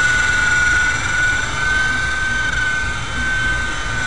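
Small electric RC helicopter (Honey Bee FP) running, its main motor and rotor making a steady high whine that wavers slightly in pitch over a low rumble. The owner hears it skipping around and suspects a bad bearing catching the main shaft or a dying main motor.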